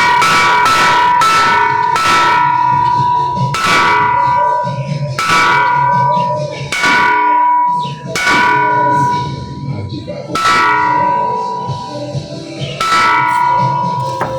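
Bells struck repeatedly, each strike ringing on with a clear high tone. The strikes come quickly for the first couple of seconds, then one every one and a half to two seconds.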